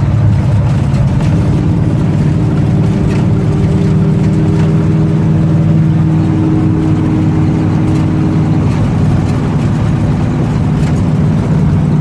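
1963 Chevrolet C-10 pickup's engine running steadily at road speed while cruising, heard from inside the cab.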